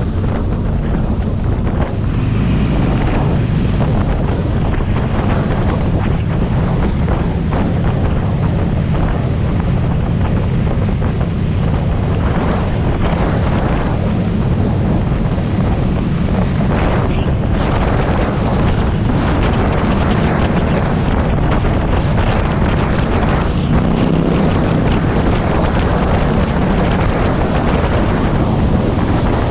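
Harley-Davidson Iron 1200's air-cooled V-twin running steadily under way, with heavy wind noise buffeting the microphone.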